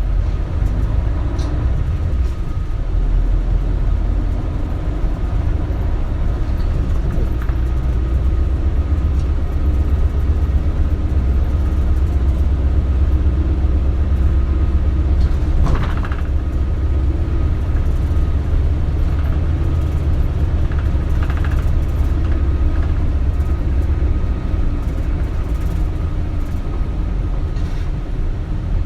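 Isuzu KL-LV280L1 (Erga) diesel route bus heard from inside the cabin while running: a steady low engine rumble with road noise, and one brief knock or rattle about halfway through.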